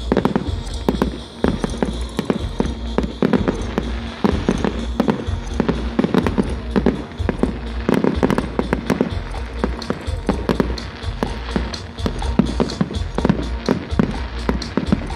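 Fireworks display with rapid, dense bangs and crackles going off one after another, with music playing alongside.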